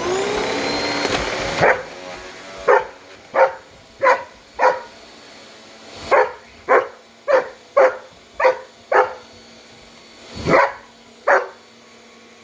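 A vacuum cleaner switches on, its motor whine rising as it spins up. A shepherd dog then barks sharply about thirteen times in quick clusters, attacking the running vacuum.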